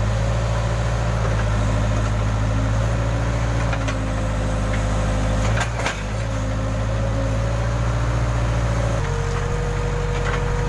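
Case backhoe loader's diesel engine running steadily with a thin whine over it, both stepping down in pitch about nine seconds in. A few sharp clinks come around the middle.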